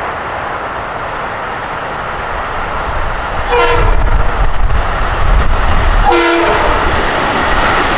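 Long Island Rail Road M-3 electric multiple-unit train approaching, its rumble growing louder, with two short horn blasts about three and a half and six seconds in, sounded for the grade crossing.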